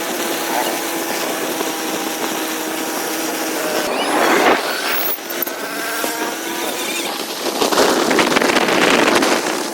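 A power tool working on metal: a steady whine for the first few seconds, then louder rough scraping passages about four seconds in and again near the end.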